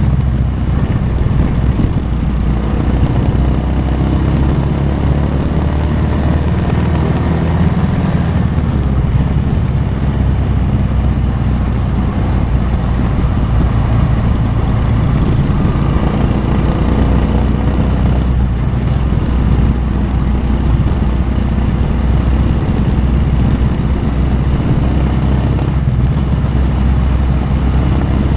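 Motorcycle engine running under way, filmed from the bike, with a deep, steady drone; its pitch rises and falls a few times in the first third as the revs change.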